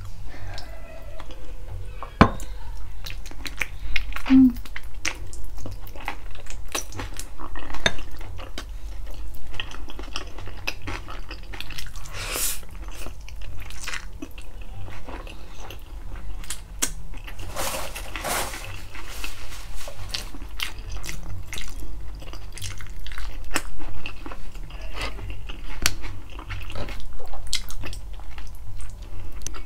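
Close-miked eating of tender stewed pork feet: irregular wet chewing and lip smacks, with now and then the clink of cutlery on a plate.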